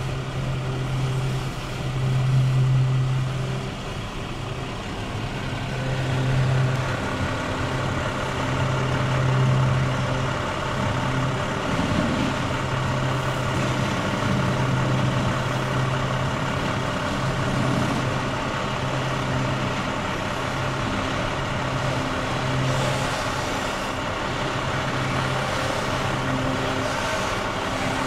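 Freight train of wood-chip hopper cars rolling past, steel wheels running on the rails, heard from inside a car. A low steady hum comes and goes under the wheel noise.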